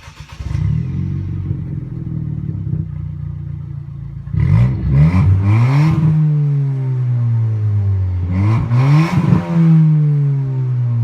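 2017 Ford Fiesta ST's 1.6-litre turbocharged four-cylinder engine starting up about half a second in and idling, then revved twice, the pitch climbing sharply and dropping back each time.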